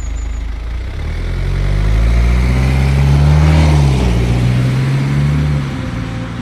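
Car engine accelerating away, its pitch rising, dipping briefly as if shifting gear, rising again, then falling back to a lower steady hum near the end.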